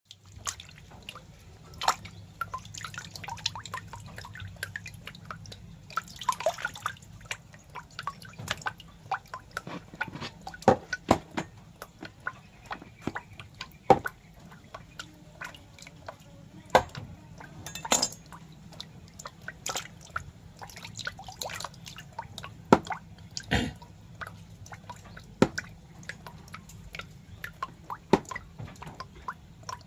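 Irregular wet clicks and drips, scattered unevenly with a few louder ones, over a low steady hum.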